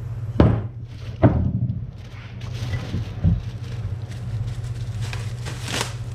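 Parts of a drill press being handled during unboxing: two sharp knocks about a second apart, each with a short ringing tail, as the parts are set down or bumped together, then a softer thump and a brief rustling scrape. A steady low hum runs underneath.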